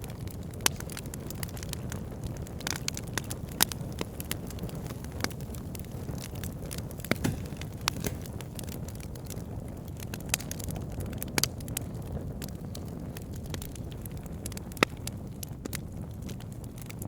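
Wood fire burning, with a steady low rush of flames and irregular sharp crackles and pops from the burning logs, a dozen or so standing out.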